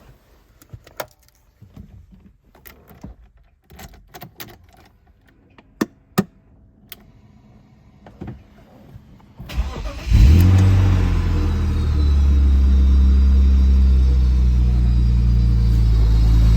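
A few scattered clicks and knocks, then a supercharged BMW E36 M3's inline-six cranks briefly about nine and a half seconds in. It catches with a loud flare and settles into a steady cold-start idle.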